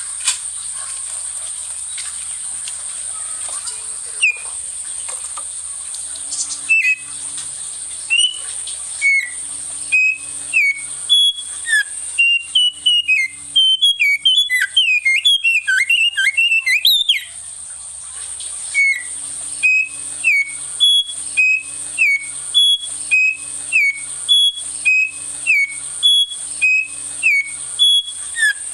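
Songbird singing loud, quick whistled notes, short and sharp, repeated about once a second, with a fast tumbling run of notes in the middle. A steady high hiss and sharp clicks run underneath.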